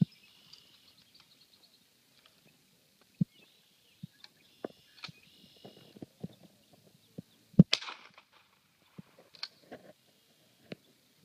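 Open-air ambience: a songbird sings short trilled phrases three times, among scattered soft knocks and rustles. The loudest thing is one sharp crack about seven and a half seconds in.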